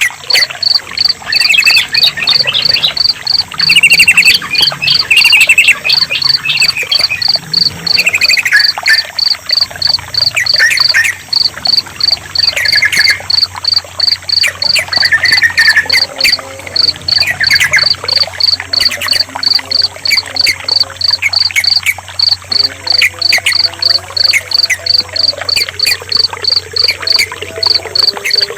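Yellow-vented bulbul (trucukan) calls and short song phrases, frequent at first and sparser later, over a cricket chirping steadily about twice a second and trickling water.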